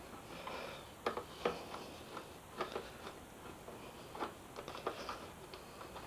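Faint, irregular light clicks of a hand tool working a screw out of a motorcycle's front cowling, a few scattered ticks a second or so apart.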